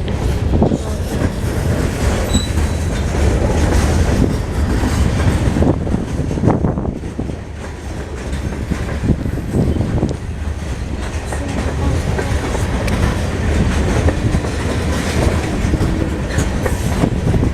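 Freight train rolling past, a loud steady rumble with irregular clacks of wheels over rail joints, easing a little about halfway through.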